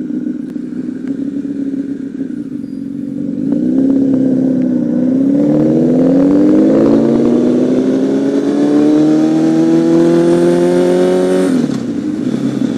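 Honda CBR1000RR Fireblade's inline-four engine on a run: it holds a steady note, then about three seconds in grows louder and climbs steadily in pitch under acceleration for about eight seconds. Near the end the revs drop sharply as the throttle is rolled off or the rider shifts up.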